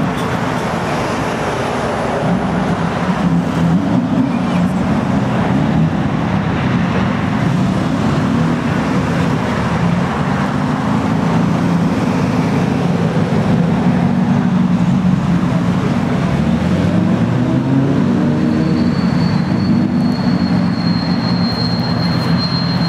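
Many motorcycle engines running together in a loud, steady rumble, with revs rising and falling now and then. A thin, steady high whine joins near the end.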